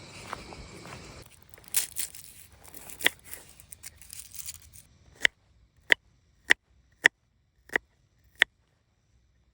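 Rustling and crinkling handling noise, then six sharp taps or knocks, about two-thirds of a second apart.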